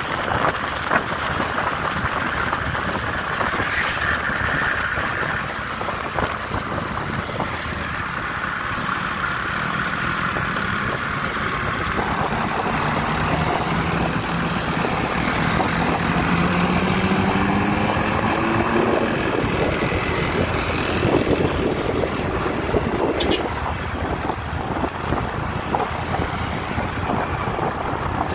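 Road vehicle noise with wind buffeting the microphone; partway through, an engine's pitch climbs steadily for several seconds as a vehicle, likely a truck, accelerates.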